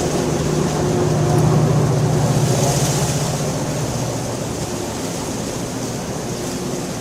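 Steady heavy rain, with a low rumble of thunder that swells about a second in and fades away a few seconds later.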